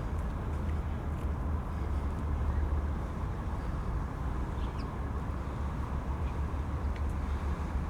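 Steady outdoor rumble of wind buffeting the microphones over distant city traffic, heaviest at the low end, with a few faint ticks.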